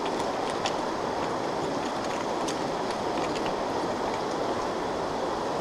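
Stream water rushing steadily, with a few small ticks scattered through it.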